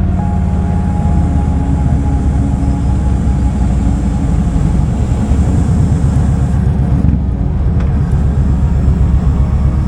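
Kawasaki Vulcan 2000's big V-twin engine running steadily, a deep, fast-pulsing exhaust note.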